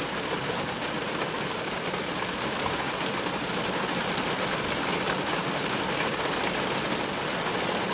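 Steady rain falling during a thunderstorm, an even hiss with no thunder claps.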